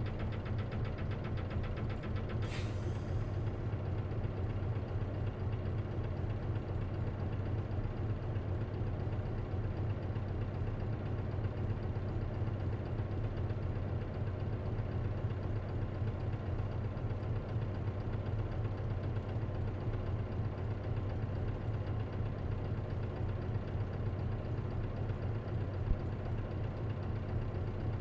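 The diesel engine of an Isuzu KC-LV380N route bus, heard from inside the cabin, running steadily at idle with no revving. The bus has an unusual abnormal noise that the owner thinks may be a symptom that can occur with a manual gearbox. A short hiss comes about two and a half seconds in, and a single click near the end.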